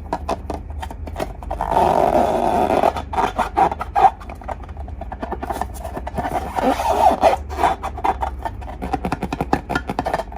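Slime being squished and worked by hand, a dense run of wet clicks and crackling pops.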